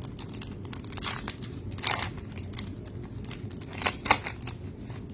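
Trading cards being handled and slid against one another: a few short brushing, flicking strokes, with a quick pair near the end.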